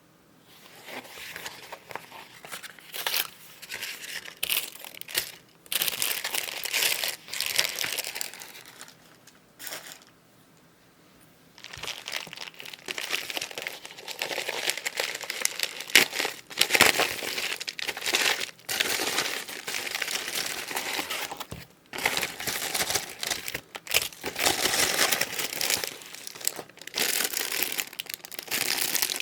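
Packaging crinkling and rustling as it is handled and unwrapped, in irregular bursts with a pause of about two seconds partway through.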